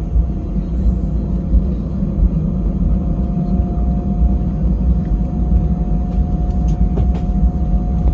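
Airbus A320 cabin noise: the engines running with a steady low rumble and a constant whine.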